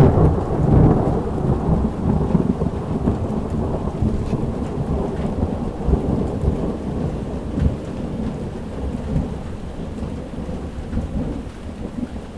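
Thunder rumbling after a lightning flash, loudest in the first second or so and then slowly easing while it keeps rolling, with steady heavy rain underneath, heard from inside a motorhome.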